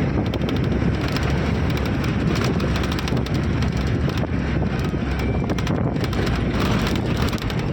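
A vehicle driving over a rough track, its rumble mixed with wind buffeting the microphone and a steady stream of small rattles and knocks.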